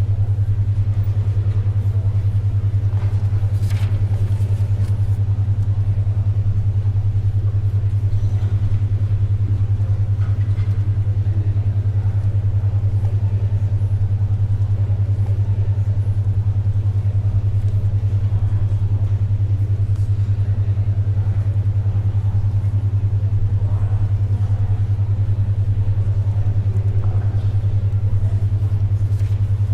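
Steady low hum of tones near 100 Hz pulsing rapidly and evenly: a 10.2 Hz alpha-wave brainwave (beat) tone. Under it, faint library ambience with a few soft taps and rustles of paper and writing.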